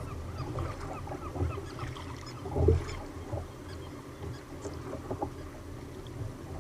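Choppy sea water slapping and sloshing against a kayak's hull, with uneven low knocks, the loudest one about two and a half seconds in.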